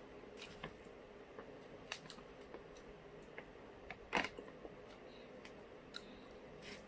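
Close-miked eating sounds: scattered small clicks and smacks of chewing, with one louder smack about four seconds in.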